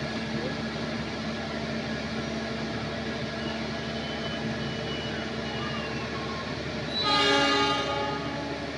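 Passenger coaches of a KAI train rolling past with a steady running noise. About seven seconds in, a train horn sounds one blast lasting just over a second.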